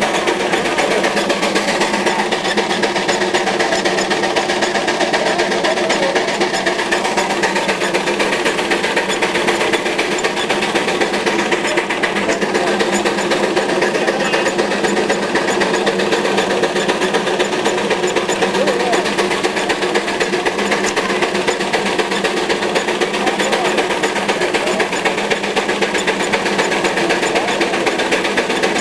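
Veneer lathe running steadily: a continuous dense machine noise with a fast, even ticking that does not change.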